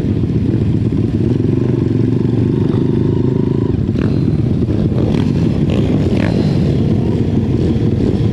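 Pitbike's small single-cylinder engine running hard at race speed, heard close up from an onboard camera, with the pitch shifting up and down and a few sharp knocks around the middle.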